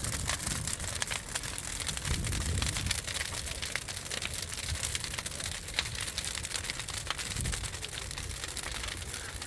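A bonfire burning, with a dense, steady crackling of many small pops and a low rumble underneath.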